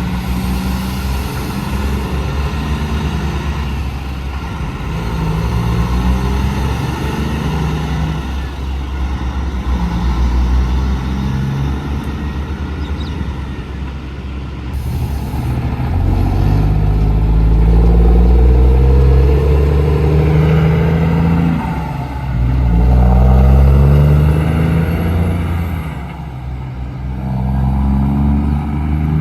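Heavy diesel trucks pulling away, their engine pitch rising and dropping back again and again as they shift up through the gears. A short hiss comes about halfway through.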